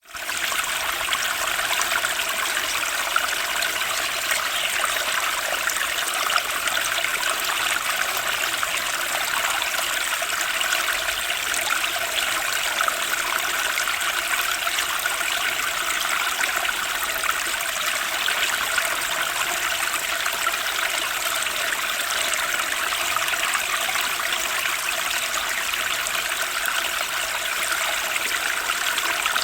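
Turbulent spring stream rushing and splashing over stones in a steady, unbroken flow, fading in quickly at the start.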